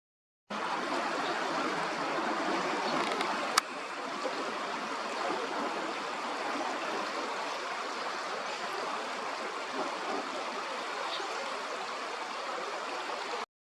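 River water flowing, a steady rushing, with a single sharp click about three and a half seconds in.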